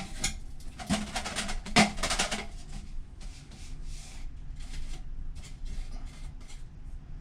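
Irregular knocks and scraping as lint is worked out of a dryer vent duct. The loudest knocks come in the first two seconds, followed by quicker, fainter scrapes.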